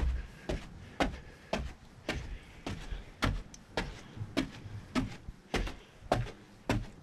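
Footsteps at a steady walking pace, about two sharp steps a second.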